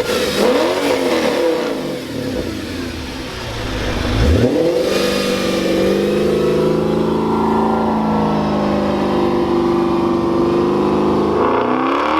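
Audi RS6 engine revved in a few quick blips, then held steady at high revs, about 4,500 rpm, to heat the engine bay, dropping back near the end.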